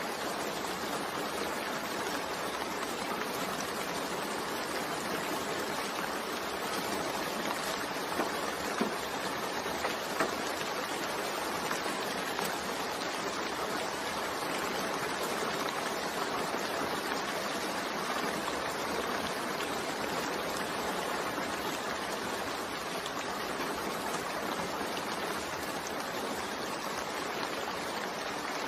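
Steady rain falling, an even hiss, with a few louder drips about eight to ten seconds in.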